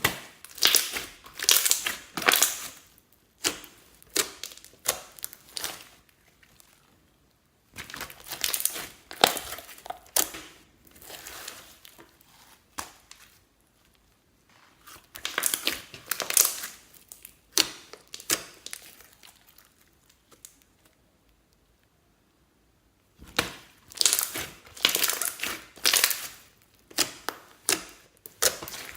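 Hands squishing, stretching and folding clear slime in spells of crackling, clicking squishes, separated by short pauses.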